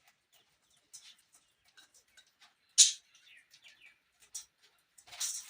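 Australian parrots calling: scattered faint ticks and short chirps, one loud sharp squawk about three seconds in, and a rougher burst of chatter near the end.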